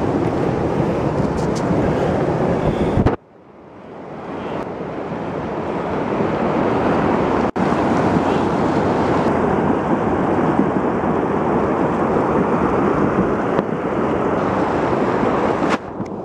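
Flash-flood water rushing, loud and steady. It cuts out suddenly about three seconds in, then swells back up over the next few seconds.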